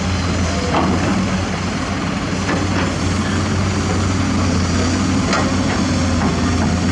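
Heavy diesel construction machinery running steadily, a deep, even engine drone, with a few faint clanks.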